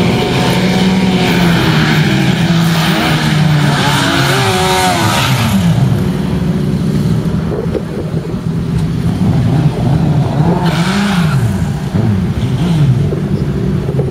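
Sport motorcycle engines revving hard at a drag strip, the pitch climbing and dropping again several times.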